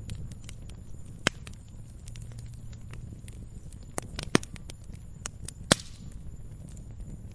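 Wood campfire crackling: scattered sharp pops and snaps, a few much louder ones standing out, over the steady low rumble of the flames.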